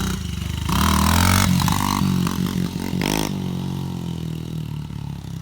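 Dirt bike engine revving as the bike rides by, rising in pitch and loudest about a second in, then easing off and fading in the last couple of seconds.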